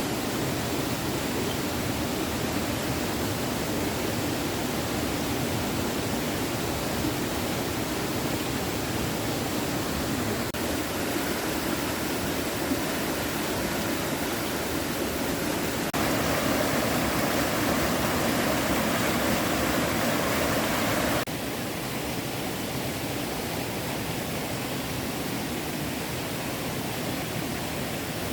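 Small stream running steadily. The rush turns suddenly louder and brighter a little past halfway, then drops back abruptly about five seconds later.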